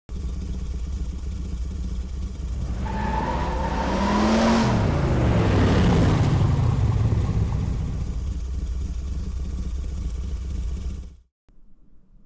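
A motor vehicle engine running steadily. About three to seven seconds in, a louder vehicle sound swells and passes, its pitch rising and then falling. The sound cuts off suddenly about a second before the end.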